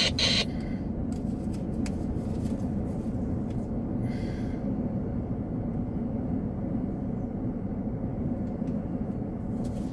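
Freight train rolling past: a steady low rumble of wheels on rail, with scattered light clicks.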